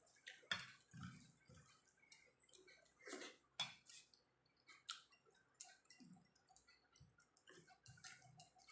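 Quiet eating sounds: soft chewing of rice and jackfruit curry, with irregular wet mouth clicks and light taps against a plate.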